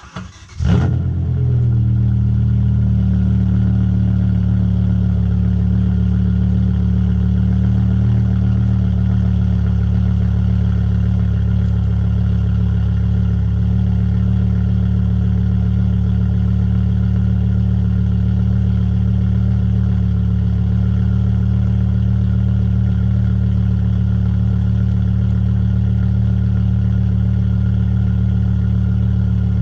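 E60 BMW M5's 5.0-litre V10 starting up, with a quick flare in revs about a second in, then idling steadily and loudly through a straight-piped custom exhaust with the catalytic converters removed.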